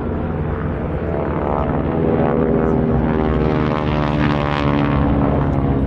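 Propeller airplane's piston engine making a low pass, getting louder about two seconds in, its pitch bending as it goes by.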